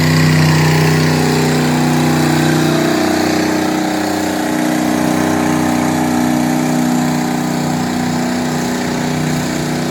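GMC 1500 pickup's small-block engine running hard under load as the truck pulls a weight sled, loud and steady, its tone changing about three seconds in.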